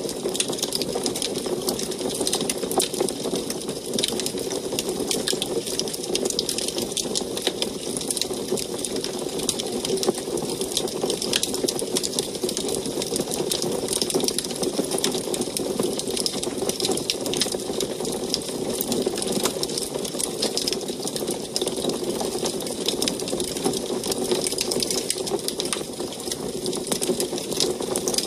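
Wood fire burning in an antique wood stove, crackling and popping irregularly and continuously over a steady low rush of flame.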